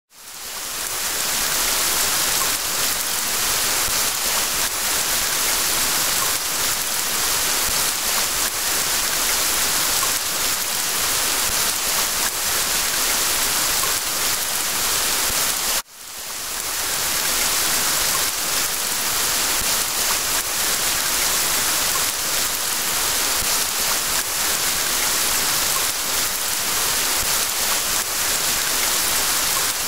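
Steady rain falling. It fades in at the start, drops out briefly about halfway through and fades back in.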